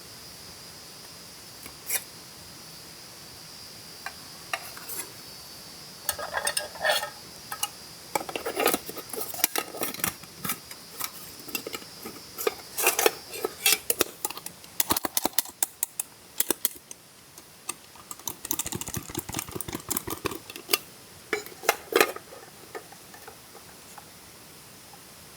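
Cutlery and cookware being handled: a run of short clinks, taps and knocks of utensils against pots and dishes, dense in the middle and thinning out near the end.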